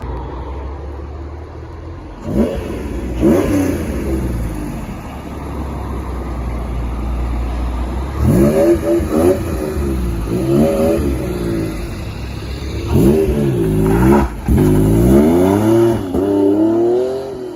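A sports car's engine revving hard again and again over a deep idle, each rev a quick rise and fall in pitch, with clusters of revs about 8 seconds in and from about 13 seconds in.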